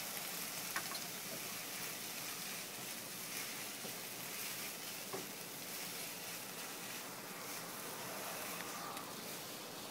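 Chopped onions, tomatoes and ginger-garlic paste sizzling in butter in a nonstick frying pan while being stirred with a silicone spatula: a steady frying hiss with a couple of faint ticks.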